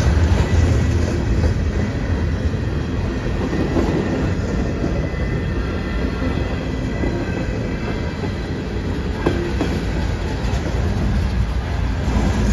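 A train's cars rolling past on the rails, a steady loud rumble with faint high wheel squeal.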